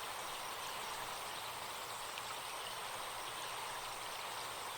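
Recorded forest stream running steadily, with a thin, steady high buzz of insects over it.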